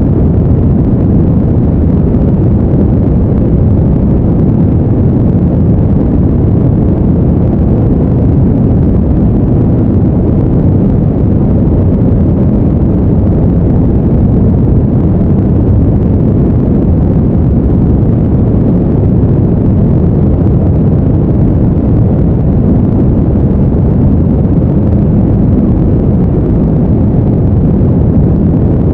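Steady, deep, unbroken noise, weighted to the low end, of the brown-noise kind used as a sleep background.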